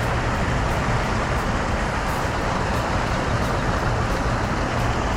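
Steady outdoor noise, a broad hiss over a fluttering low rumble, with no distinct events.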